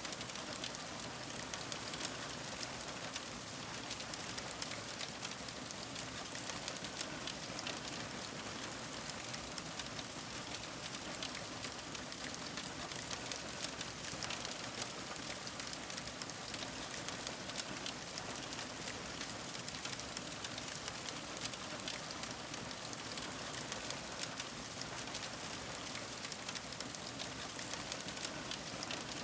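Fire crackling: a steady hiss dotted with many small, quick pops and snaps.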